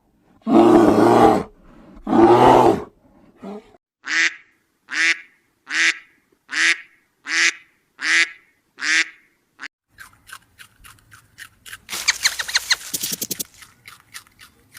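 Farm animal calls: two long, loud, low-pitched calls, then a run of seven short calls at an even pace, then quieter clicking and a buzzy rattle near the end.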